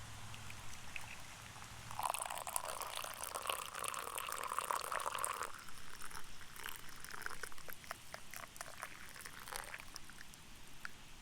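Hot water poured from a kettle into a cup for tea for about three and a half seconds, starting about two seconds in, followed by scattered small clicks and drips.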